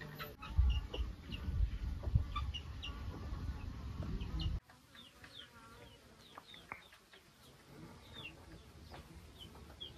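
Birds chirping: short, high, falling chirps repeated many times. Low rumbling noise sits under them in the first half and stops abruptly about halfway through.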